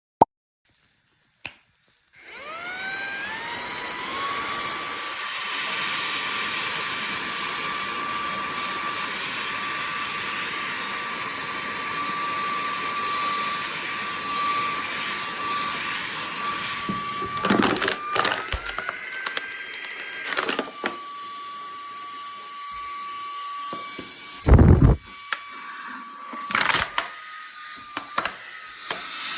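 Cordless handheld vacuum cleaner (Rabigala HL-138) switched on: its motor spins up with a rising whine about two seconds in, then runs with a steady high whine. Later the pitch steps up for a couple of seconds and drops back, among scattered knocks and one loud thump of handling.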